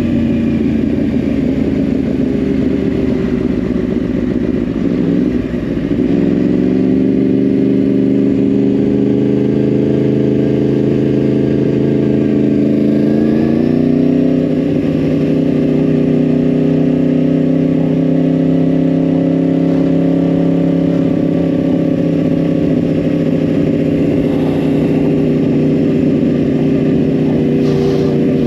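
2010 Yamaha R1's crossplane inline-four running through a Yoshimura exhaust under way. The engine note falls over the first few seconds, dips briefly, climbs slowly, steps up about halfway through and then holds steady at cruising revs.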